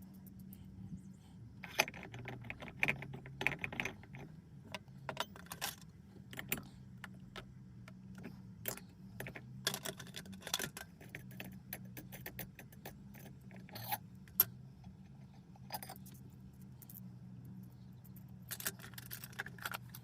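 Small metal lantern parts clicking and clinking as the check valve is handled and tried in the fount, in many scattered light taps. A steady low hum runs underneath.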